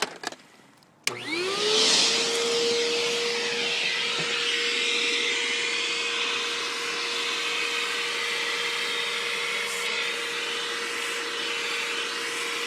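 Household vacuum cleaner with a hose attachment switched on with a click about a second in; its motor spins up to a steady pitch within a second and keeps running with a steady whine and rushing air.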